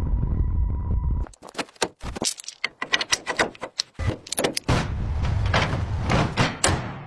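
A toy model car being handled, with quick clicks and rattles of small loose parts over a low rumble that fades out near the end.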